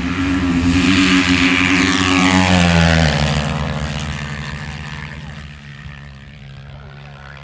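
450cc four-stroke dirt bikes running at full throttle past the microphone: the engine sound builds, drops in pitch as they go by about three seconds in, then fades into the distance.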